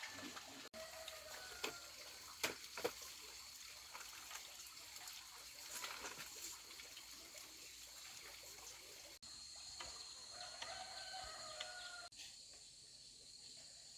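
Faint farmyard ambience with a rooster crowing once, about ten seconds in, and a few scattered light knocks early on.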